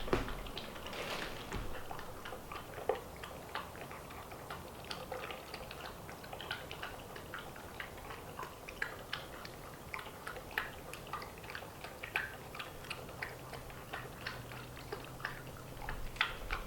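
An animal feeding from a dish set down so it can't be tipped over. Irregular small clicks and chewing sounds go on throughout.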